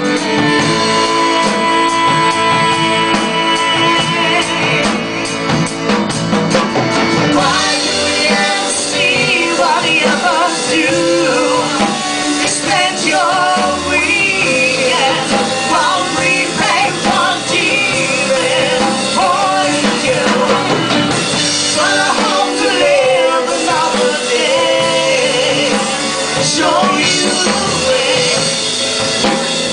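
Rock band playing a song live, with drum kit and electric guitars at full volume.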